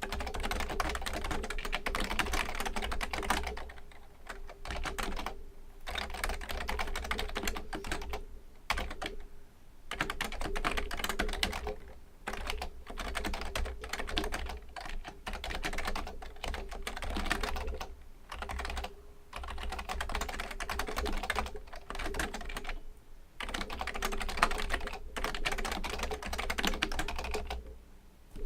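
Fast, continuous typing on a Fujitsu Component Libertouch premium membrane keyboard. Dense runs of keystrokes break off in brief pauses every few seconds.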